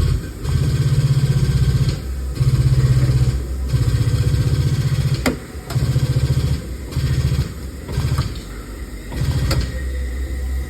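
The pump of a collision frame-pulling machine running in repeated short bursts of about a second each, driving a pull on a crumpled car quarter panel, with a couple of sharp cracks as the metal and chain take the load.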